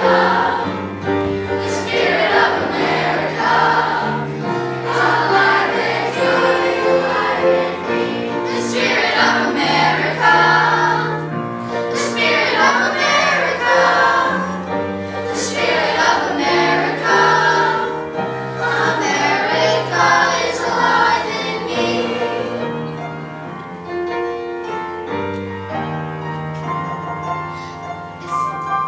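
Children's choir singing a song together, over a steady instrumental accompaniment.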